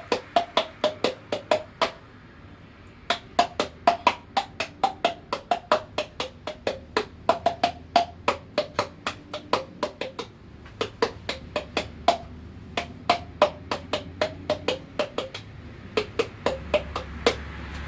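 Body percussion struck by hand: a quick run of sharp knocks, about four to five a second, whose pitch shifts from knock to knock to pick out a tune. There are short breaks about two seconds in and again about ten seconds in.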